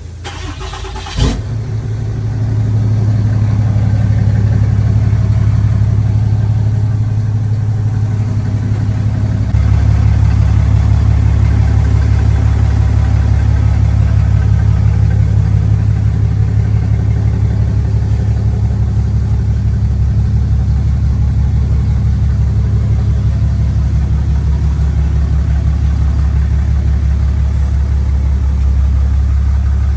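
A car's steady low rumble on the move, with a sharp thump about a second in and the rumble growing louder slightly after that.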